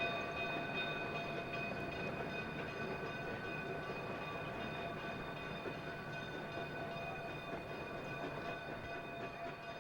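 Narrow-gauge steam train running, a steady rumbling noise with several held high tones over it, slowly fading away.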